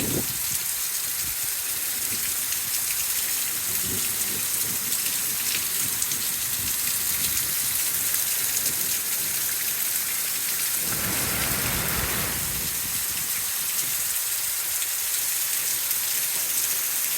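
Heavy rain pouring down steadily, a dense hiss of falling drops, with a brief fuller swell about eleven seconds in.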